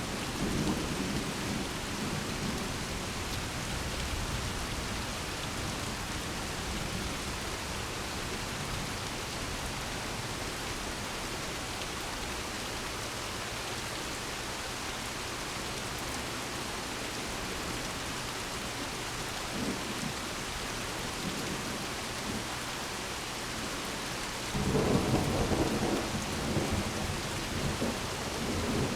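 Steady rain falling through a thunderstorm, with a low rumble of thunder in the first couple of seconds. Near the end a louder peal of thunder breaks in suddenly and rolls on.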